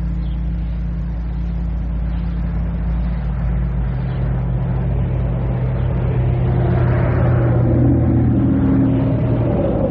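A motor vehicle's engine running over a steady low hum, swelling louder in the second half as it passes, then easing off near the end.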